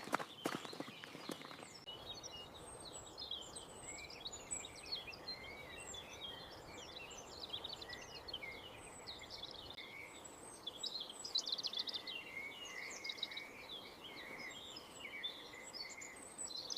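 A faint chorus of birds: many short chirps and calls overlapping, with a few knocks like steps in the first two seconds.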